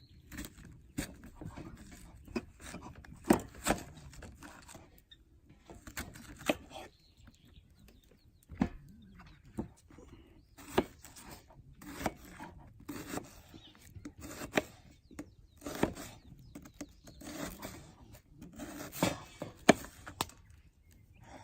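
Irregular wooden knocks and scraping, some of them sharp, coming every half second to a second or so.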